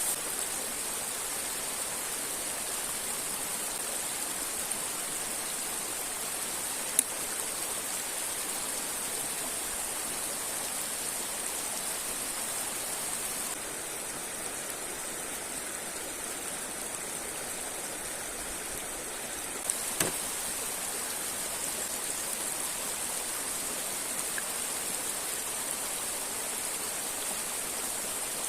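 River water rushing over rocks, a steady hiss, with a sharp click about seven seconds in and another about twenty seconds in.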